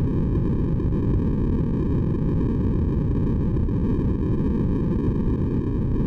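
Steady synthesized white noise for sleep, a deep, unchanging hiss with most of its weight low in pitch.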